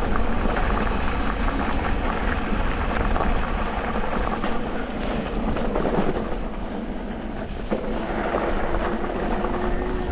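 Electric mountain bike ridden over a dirt trail: tyres on the ground and the bike rattling over bumps, with many small knocks. About eight seconds in a thin steady whine comes in and rises slightly, typical of the e-bike's motor under assist.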